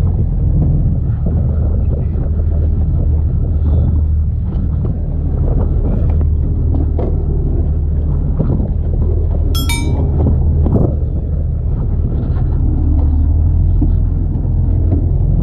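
Ferry boat's engine running steadily with a deep, even hum. A short high squeal cuts in briefly about two-thirds of the way through.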